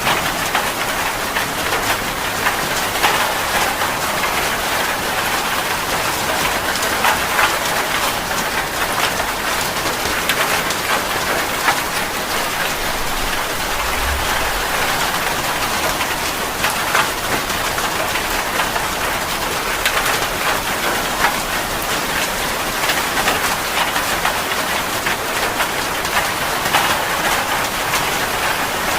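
Steady rain falling on a surface, an even hiss full of fine, closely spaced drop ticks.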